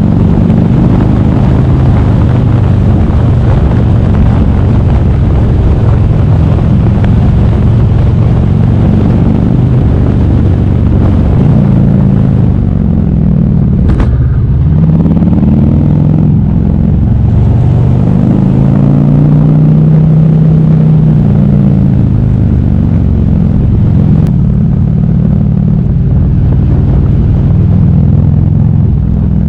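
Motorcycle engine running at road speed, heard from the bike. About halfway through, its note falls and then climbs again as the rider eases off and speeds back up.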